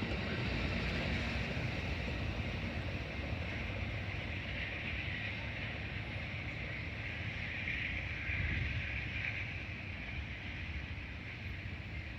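Train passing on the tracks: a steady low rumble with a higher hiss that swells in the middle and eases off near the end.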